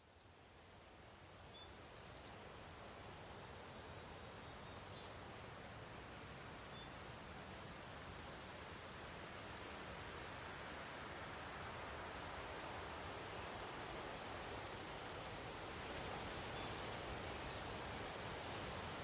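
Outdoor nature ambience fading in from silence: a steady rushing noise with scattered short, high bird chirps throughout.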